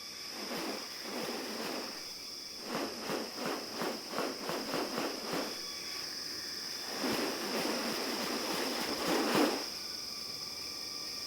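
Rainforest ambience with a steady high-pitched insect drone. A few seconds in comes a run of quick rhythmic pulses, about three or four a second, and near the end a longer, louder noisy burst.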